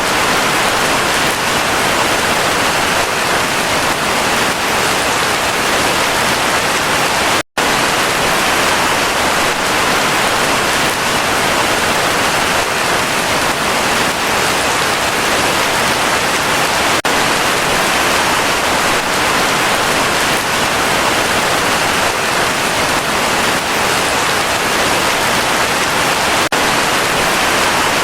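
Heavy rain falling in a steady, dense hiss. It cuts out for an instant about seven and a half seconds in.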